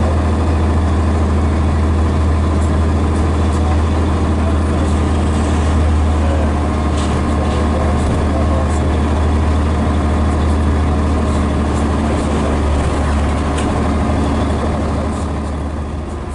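Scania DS11 diesel engine of a Scania BR111DH / MCW Metropolitan double-decker bus running steadily, a deep even drone, with a few faint clicks over it.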